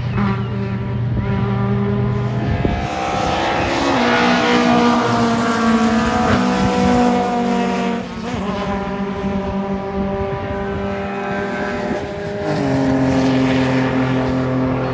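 Rally car engines running hard on the circuit, the pitch climbing and then dropping at several gear changes.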